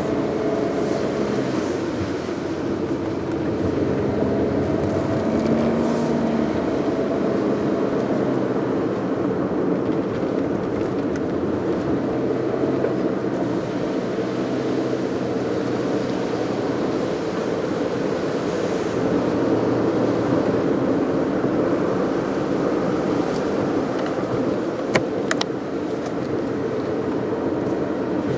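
Car driving along a road: steady engine and tyre noise, its engine tone shifting slightly as it goes, with two sharp clicks about 25 seconds in.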